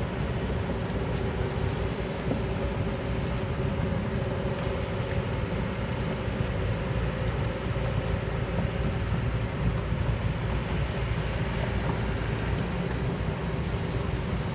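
Kobelco hydraulic excavator's diesel engine running steadily, a constant low rumble with a faint steady tone above it.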